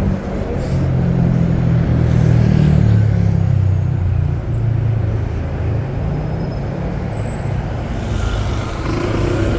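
Street traffic with a large vehicle's engine running close by, a low hum loudest in the first half and fading after about five seconds.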